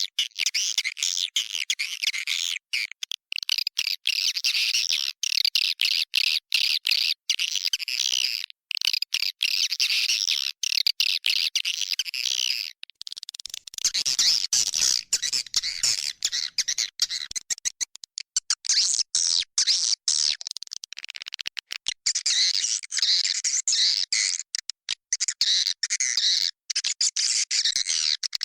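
Edible-nest swiftlets' roosting ('inap') call: a dense, rapid, high-pitched twittering chatter with frequent short breaks, the kind of recording played to lure swiftlets into a nesting house.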